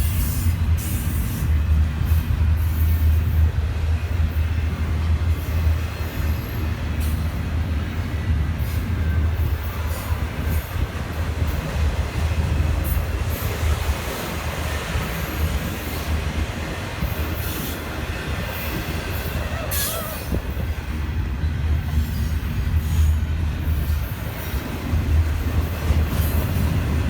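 A train rolling past, with a steady, heavy low rumble and repeated sharp clicks and clanks from its wheels and cars.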